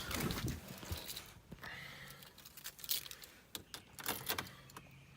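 Faint scattered clicks and light rattles, like things being handled, with no engine running.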